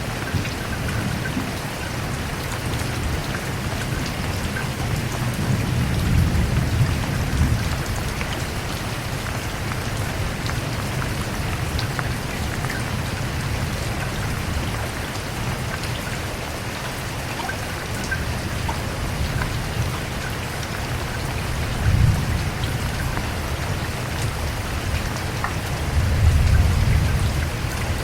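Steady rain falling, with low rumbles of thunder swelling about five seconds in, briefly around twenty-two seconds in, and again near the end.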